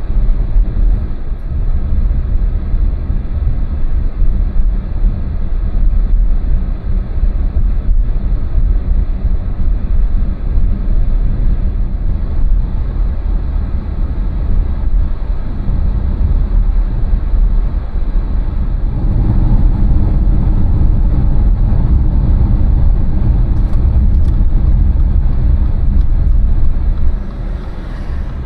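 Car driving along city streets: a steady low rumble of engine and tyre noise. About two-thirds of the way through it grows louder and fuller for several seconds, then drops back near the end.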